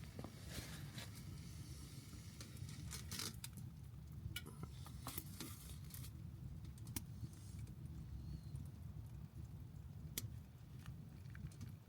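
Wood fire in a titanium tent stove crackling, with scattered sharp pops and clicks over a steady low rumble.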